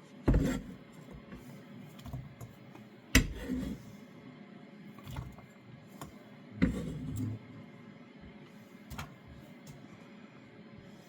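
A kitchen knife chopping down through a hard swede onto a chopping board: three heavy knocks, each with a short dull thud, spaced about three seconds apart, then a couple of lighter clicks.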